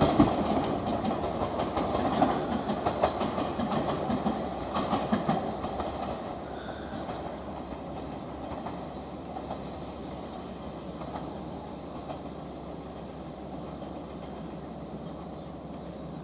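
Train wheels clicking over rail joints as a train runs past and moves away. The clicks stop about five seconds in, leaving a low rumble that slowly fades.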